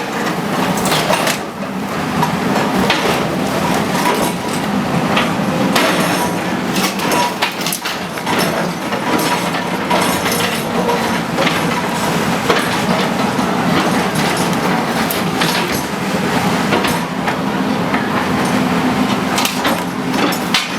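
A bulldozer's diesel engine running steadily under load, with repeated clanking and knocking of its tracks and of demolition debris.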